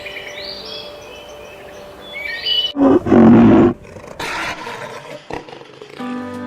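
Birds chirping, then about three seconds in a loud animal roar lasting under a second, followed by a shorter, fainter call.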